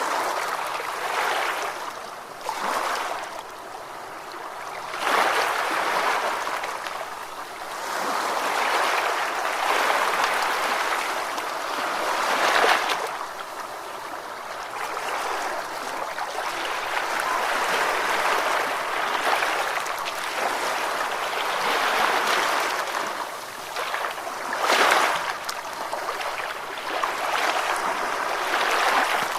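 Ocean waves washing in, the surf swelling and falling away every few seconds, with a few stronger breakers.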